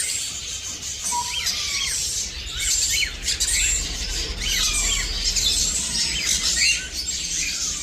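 A flock of small parrots chirping and squawking together: a dense, continuous mix of short, high calls overlapping one another.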